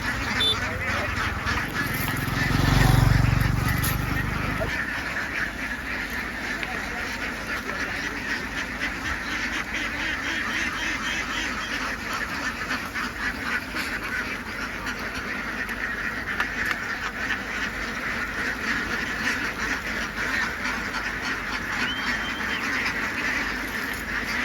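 A large flock of domestic ducks quacking continuously, many calls overlapping into a dense chatter. A brief low rumble peaks about three seconds in.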